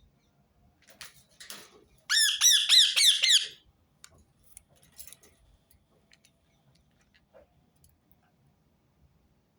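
Rose-ringed parakeet giving a rapid run of about eight loud, shrill calls, each falling in pitch, lasting about a second and a half, starting about two seconds in. Softer scratchy sounds come just before.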